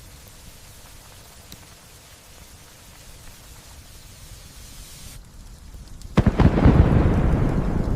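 Steady hiss of light rain, whose high part drops away suddenly about five seconds in. About a second later comes a sudden loud clap of thunder that rumbles on and slowly fades.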